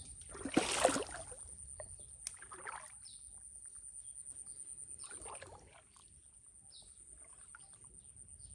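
Water splashing and sloshing in a shallow flooded field or pond as someone wades and handles a fish trap, with one sharp splash about a second in and softer swishes after it. A steady high-pitched whine runs underneath.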